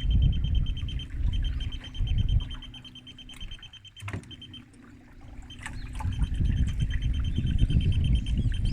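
Wind buffeting the microphone in gusts, easing off for a couple of seconds in the middle, with a steady high-pitched pulsing tone underneath and a single sharp click about four seconds in.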